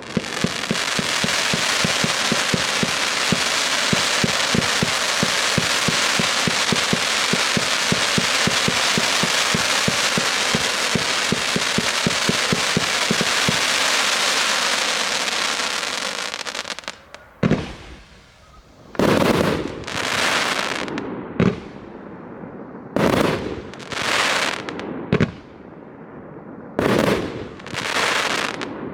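Firework cake firing: a dense, continuous crackle of rapid pops for about seventeen seconds, then a string of separate loud bursts, each trailing off in a hiss.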